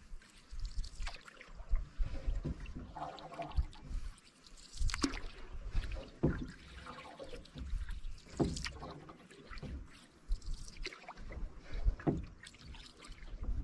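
Canoe paddle strokes: the blade dipping and pulling through the water about every one to three seconds, with water trickling and dripping off it between strokes.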